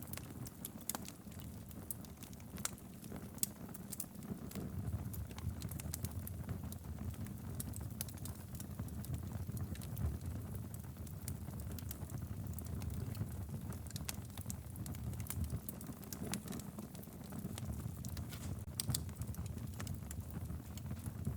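Log fire burning in a fireplace: a steady low rumble of flame with frequent sharp crackles and pops from the burning wood, scattered irregularly throughout.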